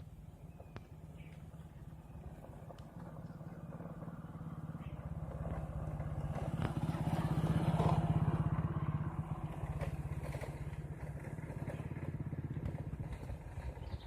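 A motor vehicle engine passing by, its hum building to a peak about eight seconds in and then fading.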